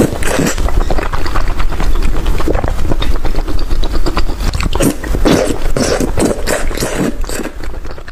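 Eating sounds: crunching and chewing, made of many quick sharp cracks and crackles.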